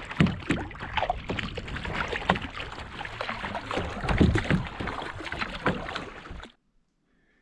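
Water splashing and sloshing around a kayak, with irregular louder splashes, cutting off suddenly near the end.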